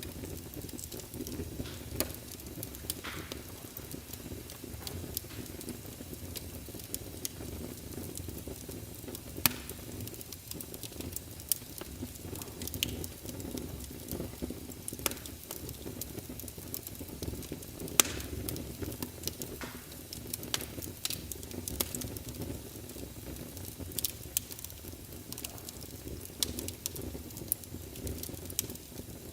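Fire burning in a fireplace: a steady low rush with irregular sharp crackles and pops throughout, a few louder pops standing out about nine and eighteen seconds in.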